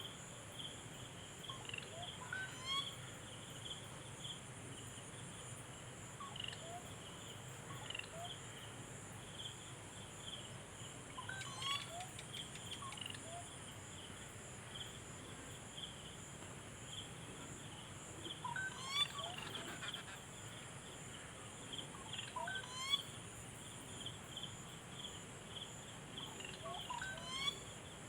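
A steady chorus of crickets or other insects, with a fast pulsing trill and a continuous high hiss. Short rising bird chirps come every few seconds, in little groups, and are loudest about two thirds of the way through.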